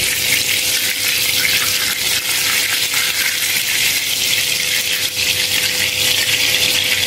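Minced-meat kebabs shallow-frying in hot oil in a pan: a steady, dense sizzle and crackle that holds even throughout.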